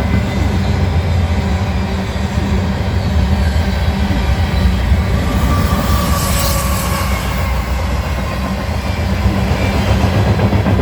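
CSX freight train passing, with a steady low rumble of rolling cars and a brief hiss about six seconds in.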